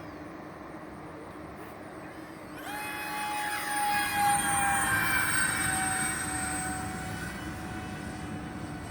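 Electric ducted fan jets of a model Airbus A330-600 airliner whining in flight. The whine swells sharply about two and a half seconds in as the plane passes close, then drops a little in pitch as it goes by.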